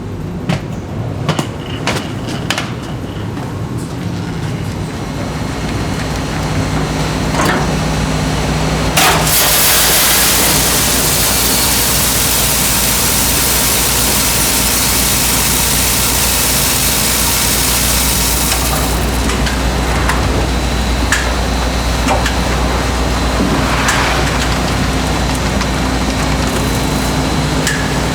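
Snack-factory production machinery running with a steady low hum. A few sharp clicks and knocks come in the first few seconds, then a loud hiss starts about nine seconds in and cuts off about ten seconds later.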